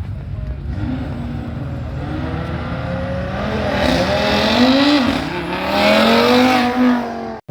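Car engine revving hard, its pitch climbing and falling in several pulls and growing louder in the second half, then cutting off suddenly near the end.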